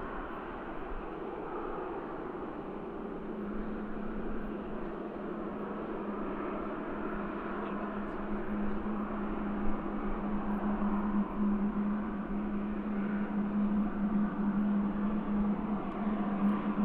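Steady engine hum, with a low steady drone that sets in a few seconds in and holds.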